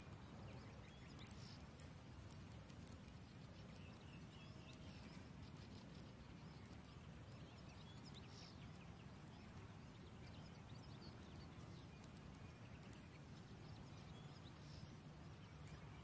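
Near silence: a faint low rumble, with a few faint, short high bird chirps and soft clicks scattered through.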